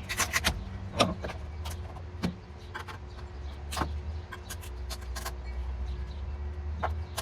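Old sound-deadening material being pried and peeled off a car's body sheet metal: irregular cracks, snaps and scrapes, the sharpest about a second in, over a steady low hum.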